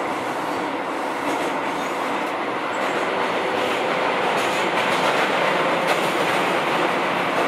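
Running noise inside a Keio 7000 series electric commuter train car: a steady rumble of wheels on rail with faint clicks from rail joints, getting slightly louder after about three seconds.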